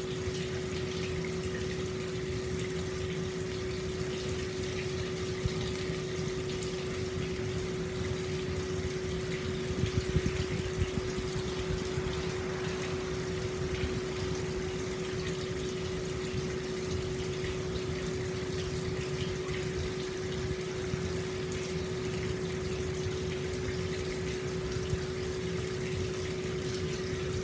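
Hot spring water flowing steadily into an open-air stone bath, a constant splashing pour with a steady hum beneath it. The pour grows briefly louder with a few splashes about ten seconds in.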